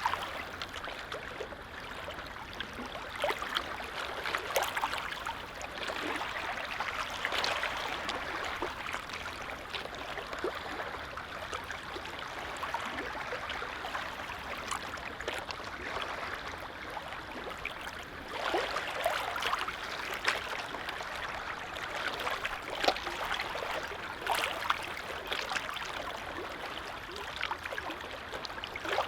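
Small lake waves lapping: a steady wash of water with frequent little splashes, getting a little louder about two-thirds of the way through.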